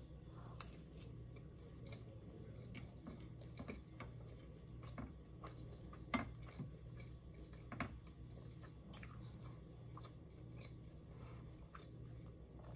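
Soft, close-up chewing of naan scooped with butter chicken: faint wet mouth sounds and small clicks, with a couple of sharper clicks about six and eight seconds in.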